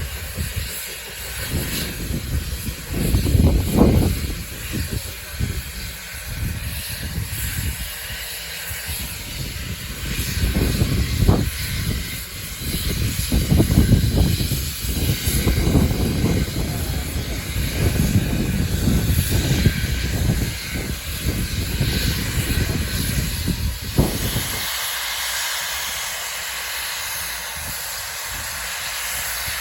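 Steam locomotive letting off a steady hiss of steam, with irregular low rumbling and a few knocks over it. About 25 seconds in, the rumbling stops and only the hiss is left.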